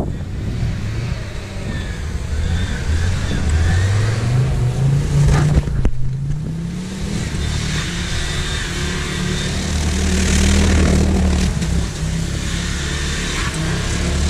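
Audi Quattro Turbo engine revving as the car drives in circles on the wet grass. The note climbs a few seconds in, breaks off sharply around the middle, climbs and holds high, then dips and rises again near the end, with a hiss of tyres and spray over it.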